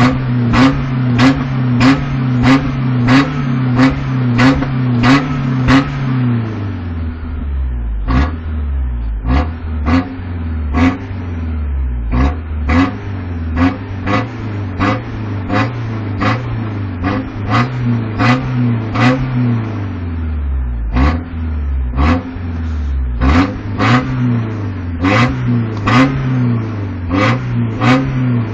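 Toyota Tacoma pickup engine being revved in quick short throttle blips, about two a second, each with a sharp crack. Twice the revs fall back toward idle for a couple of seconds before the blipping starts again.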